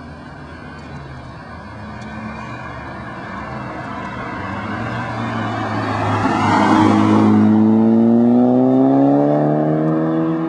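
VW MkV GTI with a 3-inch turbo-back exhaust accelerating: the exhaust note grows steadily louder, a rush of noise peaks about two-thirds of the way through, then the engine note climbs in pitch as the car pulls.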